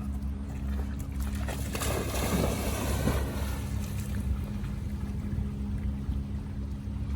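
Wind rumbling on the microphone with a faint steady low hum, and a brief rush of noise between about two and three and a half seconds in.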